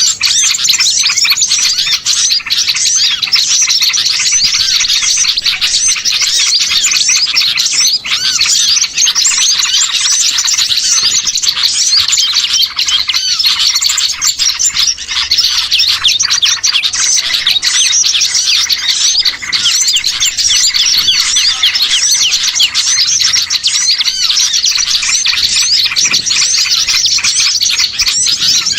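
Dense, unbroken chorus of many small songbirds chirping and twittering over one another, high-pitched and steady, played as a bird-lure recording to draw in small wild birds.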